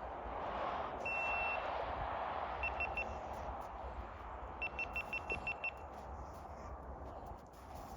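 Electronic beeping: one longer high beep, then three short beeps, then a quick run of about eight short beeps, over a low background hiss.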